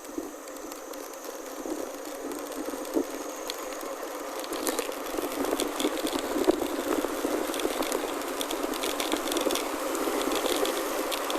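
Chromoly gravel bike rolling over a gravel forest road: tyre noise and rattling that grow louder, with scattered clicks from about halfway.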